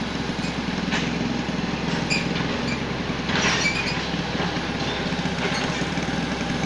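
A small engine running steadily, with a rapid low flutter and a brief rush of hiss a little over three seconds in.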